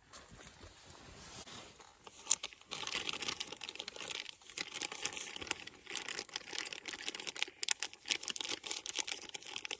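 Dense, irregular crinkling and crumpling, as of something being handled, starting about two seconds in and running on in rapid clusters.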